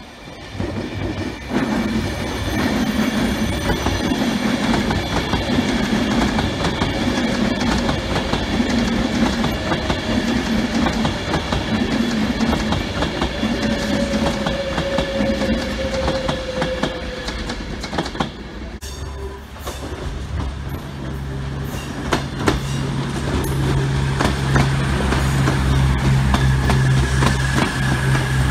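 Avanti West Coast Class 390 Pendolino electric train passing close by. Its wheels clack over the rail joints about once a second, and a faint whine falls in pitch midway as it slows. In the second half a steady low hum from the passing carriages takes over, with scattered clicks.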